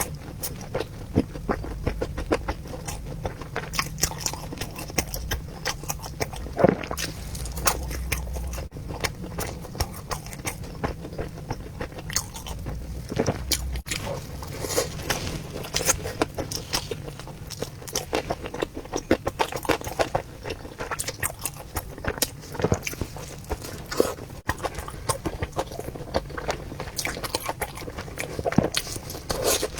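A person chewing and biting into a rice ball close to the microphone, with many small irregular mouth clicks throughout.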